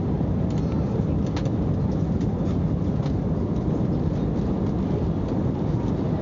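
Cabin noise inside an Airbus A321: a steady low rumble with faint scattered rattles of cabin fittings.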